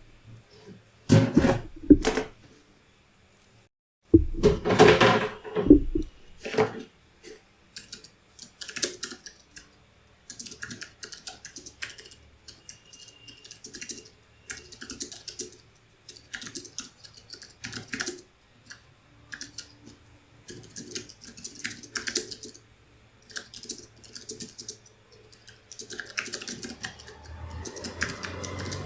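Typing on a computer keyboard: quick runs of key clicks with short pauses between them. In the first six seconds there are a few louder bursts of heavier knocks.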